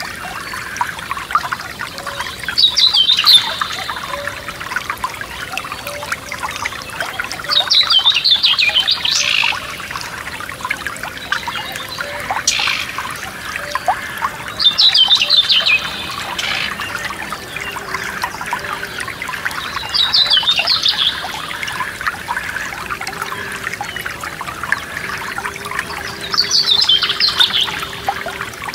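Forest stream trickling and splashing steadily, with a songbird singing a short, falling phrase about a second long five times, roughly every five to six seconds.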